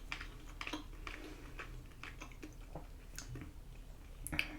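A person chewing chewy Korean rice cakes (tteokbokki): faint, irregular wet mouth clicks and smacks, with a slightly louder cluster near the end.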